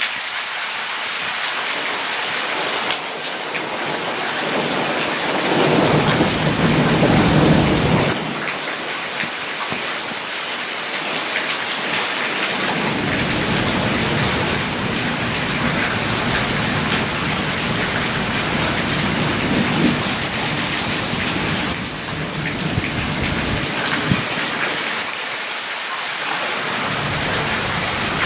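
Steady rain hissing throughout, with rolling thunder. A louder rumble builds from about four seconds in and breaks off sharply near eight seconds, a long low rumble runs through the middle, and another begins near the end.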